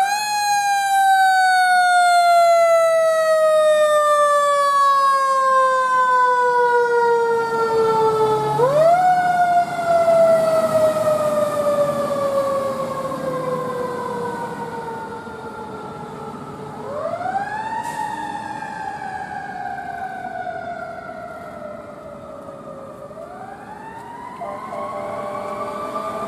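Fire engine siren sounding: it winds up quickly and then falls slowly over several seconds, and is wound up again about four times.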